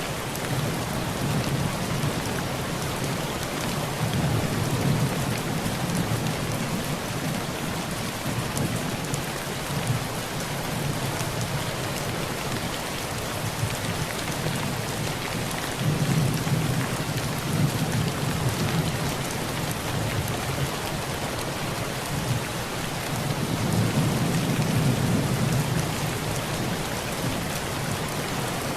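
Heavy rain falling steadily on a tin roof, with three long rolls of low thunder: one from about a second in, one just past the middle, and one near the end.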